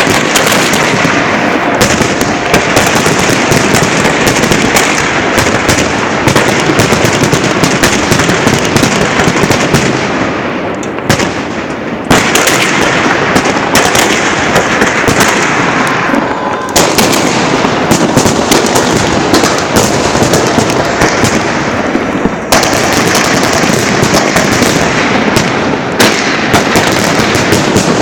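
Firework salute launchers firing a dense, continuous barrage of launches and bursting shells, easing briefly about eleven seconds in and again around seventeen seconds.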